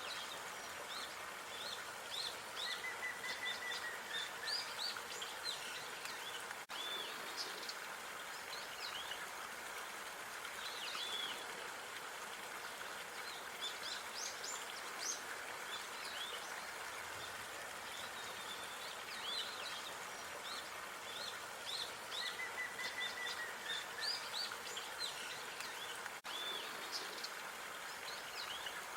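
Small songbirds chirping in quick, scattered calls over a steady outdoor background hiss. The same stretch of birdsong repeats about every 20 seconds, with a brief dropout where the recording loops.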